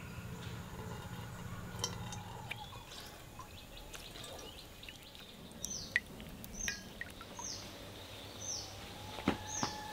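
A bird calling over and over, a short high note sliding downward about once a second through the second half. Under it, faint drips and small taps as liquid is squeezed from a cloth bundle into an enamel basin.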